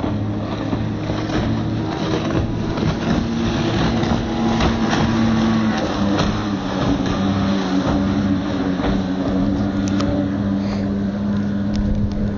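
Freshly rebuilt Evinrude outboard motor on a racing boat, running steadily at speed: an even engine drone under a broad rush of noise.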